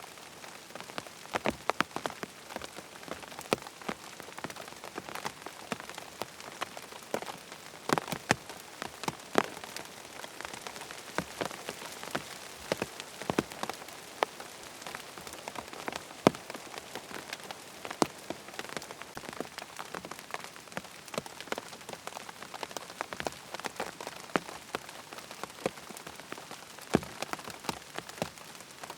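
Rain falling on a tent: a steady hiss of rainfall with many separate drops tapping sharply on the fabric at irregular moments.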